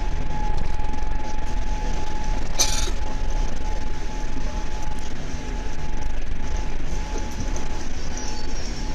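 Cabin noise of a Boeing 787 rolling on the ground after landing: a steady low rumble with a steady whine over it, and a short burst of hiss about two and a half seconds in.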